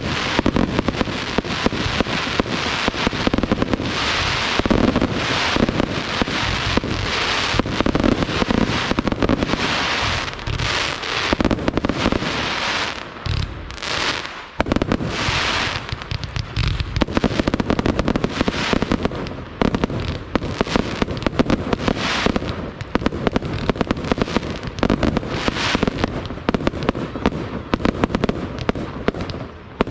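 Pirotecnica Itria aerial fireworks display: a dense, continuous run of bangs and crackling, with a short lull about halfway through before the shots pick up again.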